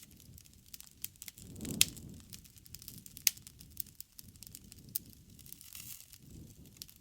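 Wood fire crackling: irregular sharp snaps and pops over a soft, low rumble of flames, with the loudest snaps just under two seconds and just over three seconds in.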